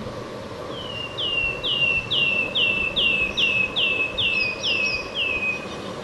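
A warbler singing a run of about ten clear whistled notes, each sliding down in pitch, about two a second, over steady background noise.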